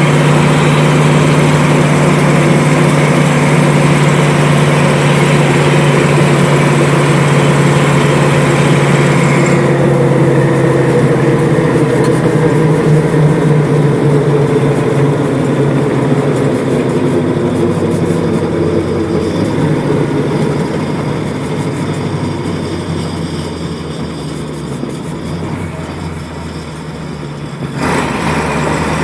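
Fire engine's engine and road noise heard from inside the cab: a steady low drone with rushing noise over it. The rush drops off about a third of the way in, and the drone slowly eases down before the noise comes back suddenly near the end.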